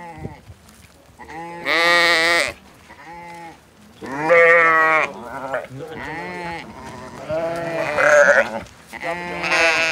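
Cat meowing repeatedly: a string of drawn-out, wavering meows, about one every second or so, some short and some long.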